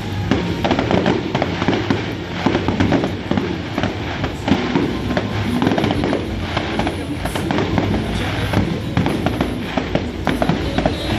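Fireworks going off in a dense, rapid barrage of bangs and crackles, many per second without pause, with music playing underneath.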